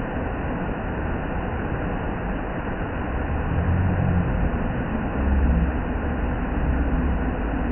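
Waterfall: a steady rush of falling water, with low rumbles swelling up several times from about halfway through.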